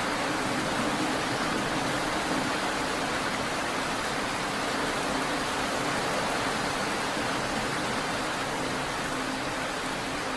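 Steady rain falling, an even hiss with no single drops standing out, over a steady low hum.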